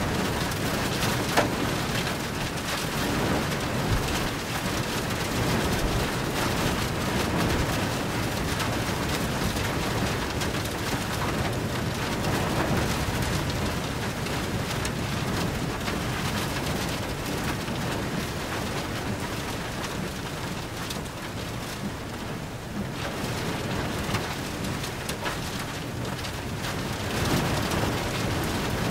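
Steady hiss of heavy thunderstorm rain striking a surface, with many small sharp ticks of drops. It eases slightly a little past two-thirds of the way in.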